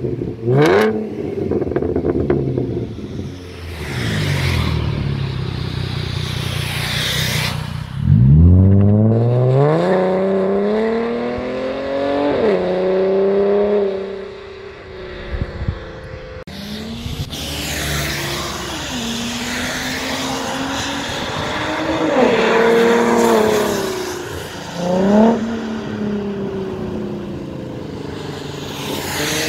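2014 Ford Mustang 3.7-litre V6 with a muffler-delete stainless catback exhaust, revving and pulling hard. Its pitch climbs and drops several times, with the biggest surge about a third of the way in.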